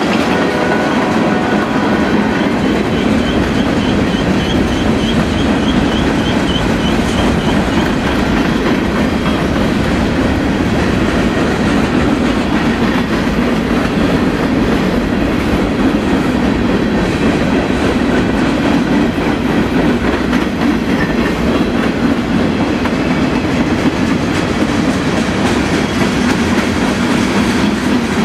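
A CSX freight train's hopper cars rolling past close by: the steady rumble of steel wheels on the rails, with a faint high, wavering squeal for several seconds near the start.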